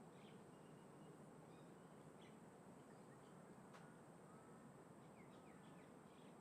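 Faint outdoor ambience: a steady low background wash with scattered faint small bird chirps, a steady thin high tone, and a single sharp click just before the four-second mark.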